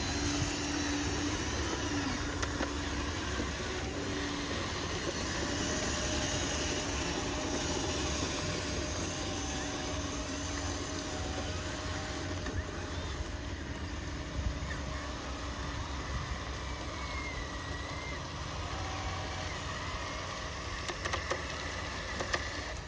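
Small electric motors and gearboxes of hobby-built RC construction trucks running steadily: a thin motor whine over a low rumble, the whine moving up in pitch after about five seconds.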